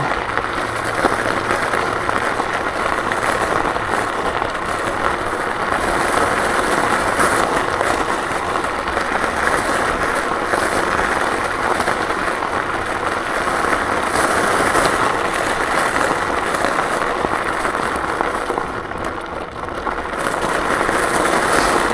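KuKirin G2 electric scooter rolling over loose gravel, a steady rough noise of the tyres on the stones. It eases briefly near the end.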